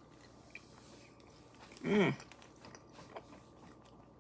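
A person chewing and biting food, with faint mouth clicks, and a short voiced sound from the eater about two seconds in.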